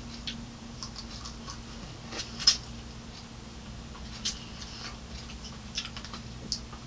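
Close-up eating sounds: scattered wet mouth clicks and smacks while chewing pieces of strawberry, the loudest about two and a half seconds in.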